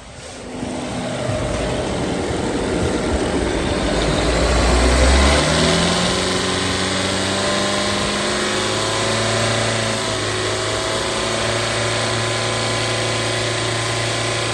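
2016 Chrysler 200's 2.4-litre four-cylinder engine starting and then running at a steady idle. The even engine note settles in about five seconds in.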